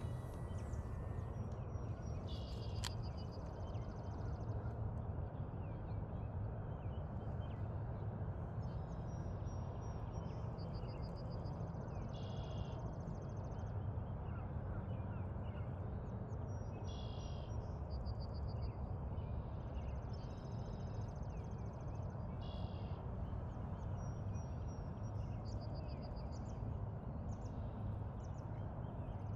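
A small bird repeating a short, high trilled song every few seconds over a steady low rumble of outdoor background noise.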